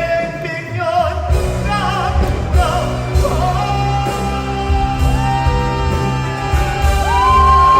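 A pansori-trained male singer sings a trot ballad live over a band, his voice bending through the phrase and then rising into a long held high note near the end.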